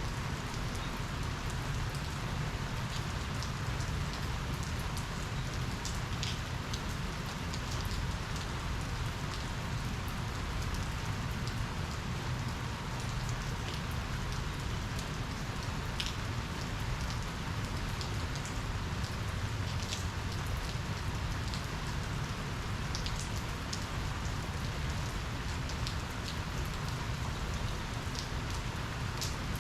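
Steady rain falling during a thunderstorm, with sharp ticks of individual drops striking close by scattered throughout.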